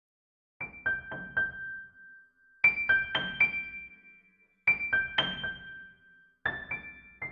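Intro music on a bright piano-type keyboard: a short motif of three or four struck notes, played four times about two seconds apart, each phrase ringing out before the next.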